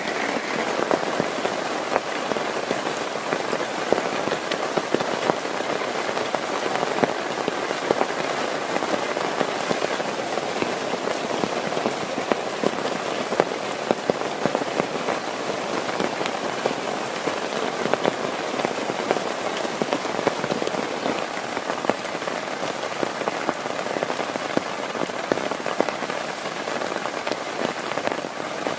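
Heavy rain falling steadily, a dense even hiss dotted with countless individual drop hits.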